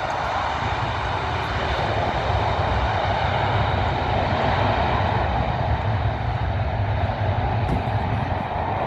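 Aircraft engines giving a loud, steady roar that builds over about the first second and then holds, as an airliner passes close by.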